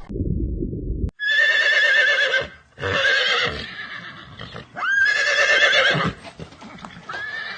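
A horse whinnying: several high, quavering calls, one after another, the first starting about a second in and the last fading near the end. Before them, a low rumbling noise cuts off about a second in.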